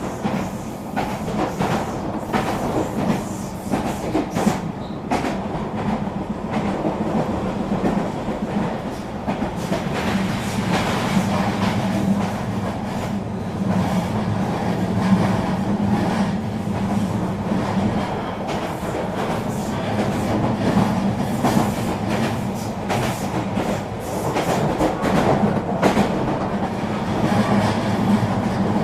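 Eurobahn RE3 regional train running steadily along the track: a continuous rumble with a steady hum and frequent wheel clicks over the rails.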